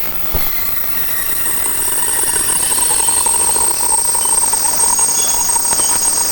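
Train running, heard from inside the carriage: rail and running noise growing louder, with a steady high-pitched whine or squeal over it and a single click shortly after the start.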